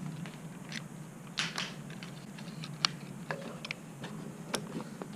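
Scattered light clicks and taps, about a dozen at uneven spacing, over a steady low hum.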